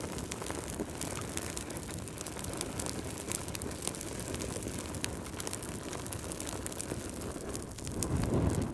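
Fireplace fire burning: a steady low rush dotted with many small sharp crackles and pops, swelling louder briefly near the end.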